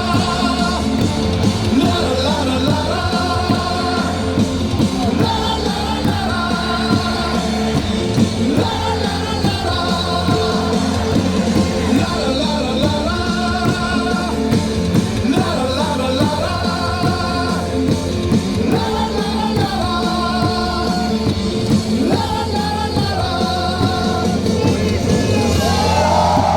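Baseball cheer song played loud over a stadium PA, with a sung melody over a steady backing and the crowd singing and yelling along.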